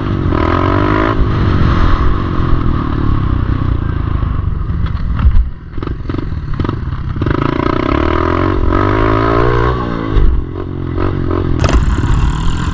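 Pit bike engine revving, its pitch rising and falling as the throttle is worked. It drops away with a few knocks about five seconds in, then revs up again.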